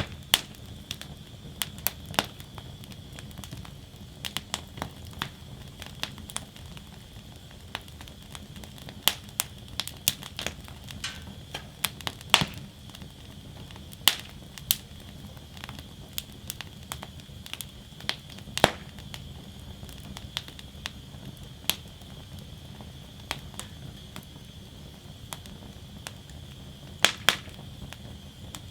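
Wood fire burning in a fire basket: irregular crackling with scattered sharp pops of the burning wood, a few much louder than the rest, over a steady low rush.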